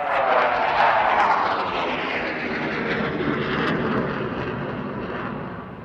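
Hawker Hunter jet making a fast pass, loudest about a second in, its engine note falling in pitch and fading as it moves away.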